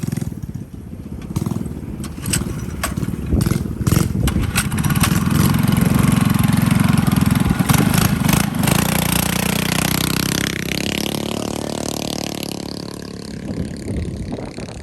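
Small mini bike engine running close by, growing louder to a peak mid-way, then its pitch falling as it moves off.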